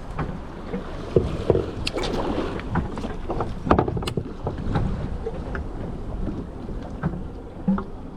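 Wind buffeting the microphone over the steady noise of a boat at sea, with scattered knocks and clatter on deck.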